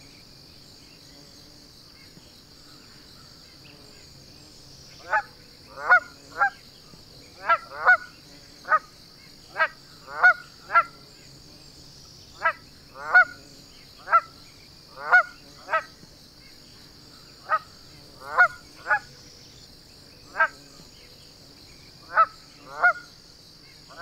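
A bird giving short calls over and over, often in pairs or threes, starting about five seconds in. Under them runs a steady, high-pitched drone of insects.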